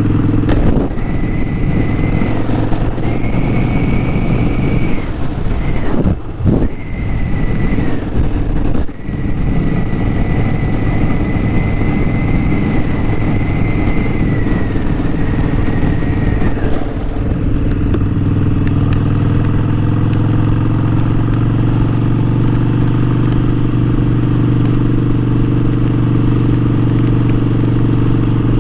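Harley-Davidson Sportster 1200's air-cooled V-twin engine and exhaust running on the move. The first half is noisy with a thin steady high tone and brief drops in sound about six and nine seconds in; after that the engine note is steady and climbs slowly.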